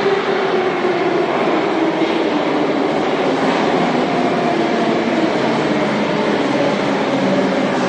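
Subway train pulling in and slowing, its running noise steady with a whine that falls slowly in pitch as it decelerates.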